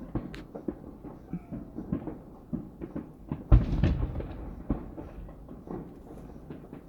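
Fireworks going off in a quick, irregular run of pops and crackles, with one heavier boom about three and a half seconds in.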